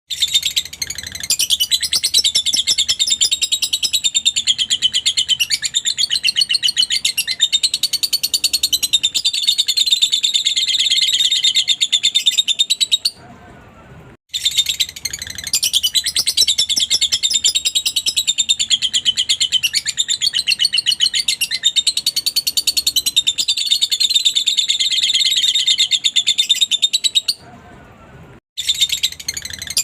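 Lovebird chattering song: a fast, unbroken stream of shrill chirps and trills, breaking off briefly twice and then starting again in the same pattern, as a looped lure recording.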